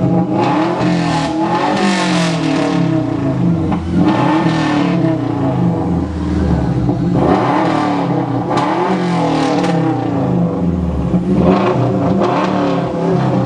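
Subaru Legacy's 2.5 litre boxer flat-four engine revved up and down several times, with a raspy exhaust note.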